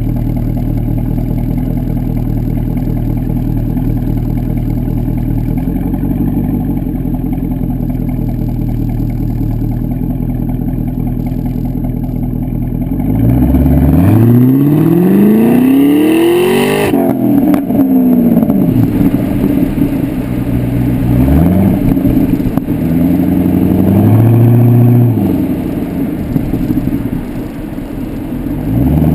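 Pontiac G8 GXP's LS3 V8 through a Corsa exhaust, idling steadily, then revved up hard about halfway in. It cuts off sharply and falls back, followed by two shorter revs and the start of another near the end.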